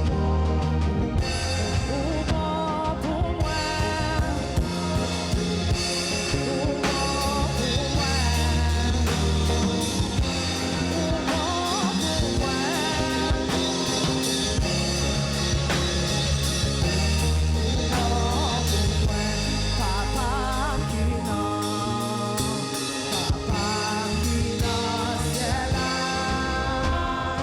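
Live band music with drum kit and bass, with singing over it.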